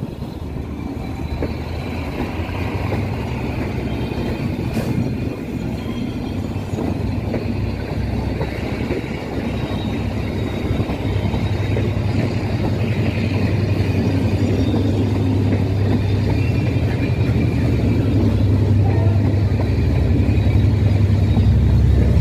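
Passenger train coaches rolling slowly past, a steady rumble from the wheels on the rails, with a diesel locomotive's low engine drone growing louder through the second half as the locomotive draws near.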